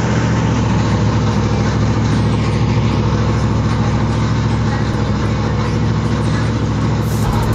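A car engine idling steadily with a deep, even hum.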